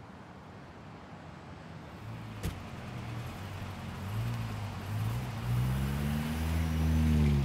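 A car engine pulls away, its pitch rising and falling as it speeds up and growing louder toward the end, with a single sharp knock about two and a half seconds in.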